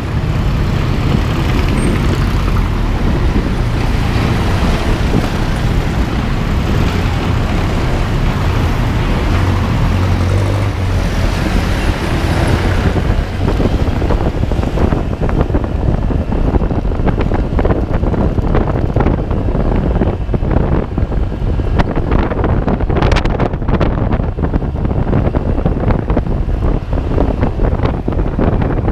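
Wind buffeting the microphone over a steady low rumble, with irregular crackles in the second half.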